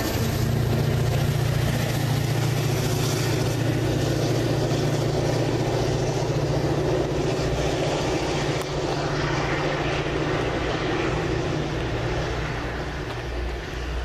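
MBTA commuter rail diesel locomotive and train moving away after passing: a steady low engine drone over rail rumble that slowly fades over the last several seconds.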